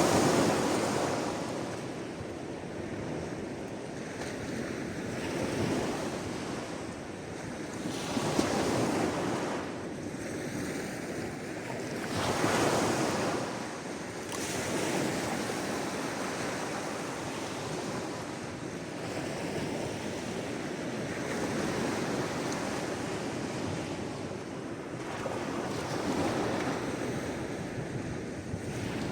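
Sea waves breaking and washing ashore in a steady rush of surf that swells and fades irregularly every few seconds, with one of the loudest surges right at the start and others about a third of the way in and just before halfway.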